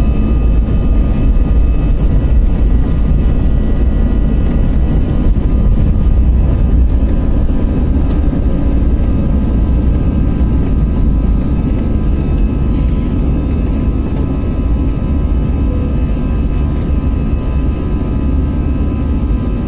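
Airbus A320-214's CFM56 jet engines at take-off thrust: a loud, steady low rumble with steady whining tones above it, easing slightly in the second half.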